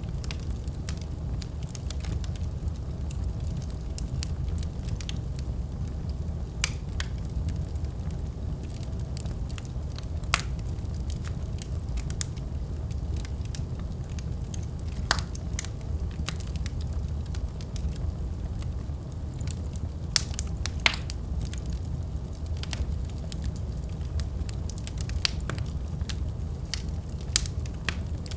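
Wood fire burning in a fireplace: a steady low rumble of the flames with scattered sharp crackles and pops from the burning logs, a few louder snaps among them.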